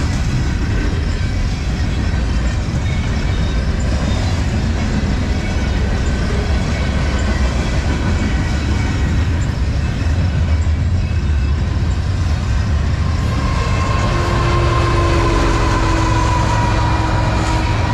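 A CN freight train rolling past close by: a steady rumble of freight car wheels on the rails. About three-quarters of the way through, a mid-train diesel locomotive working as a distributed power unit passes, adding steady engine tones over the rumble.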